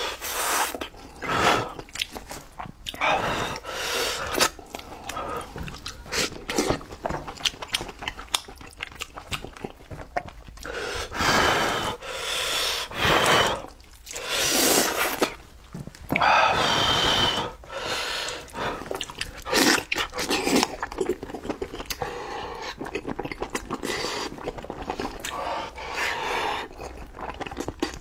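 Close-miked chewing of spiced sheep's head meat: wet smacking mouth sounds, crunches and clicks, irregular throughout, with a few longer, louder stretches around the middle.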